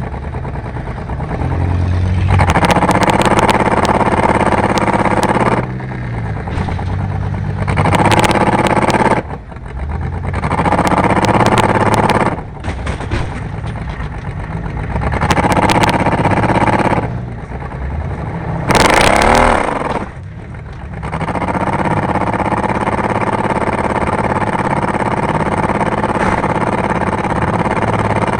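Junk race cars' engines racing on a dirt track, swelling loud and dropping away over and over, with a quick rev about two-thirds of the way through.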